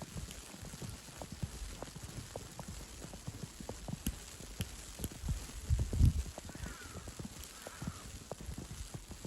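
Footsteps crunching on snow at walking pace, a run of short low thumps and clicks over a soft steady hiss, with one heavier step about six seconds in.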